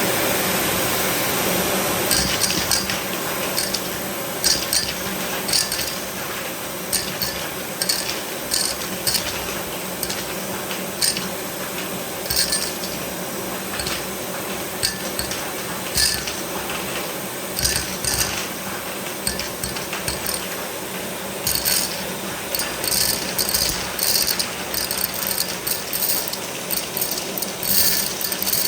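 Glass marbles clicking and clinking against each other and hard surfaces in irregular rattling runs, over a steady rushing hum. The clicks come thicker in the last quarter.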